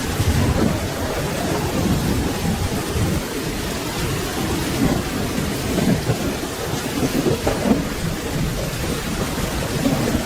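Steady rain falling, with a low rolling rumble of thunder underneath it.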